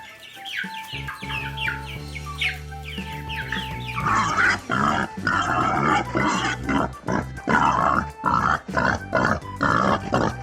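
Pig grunting in a quick run of short noisy grunts, about two to three a second, from about four seconds in, over background music. Before that, short high falling chirps are heard over the music.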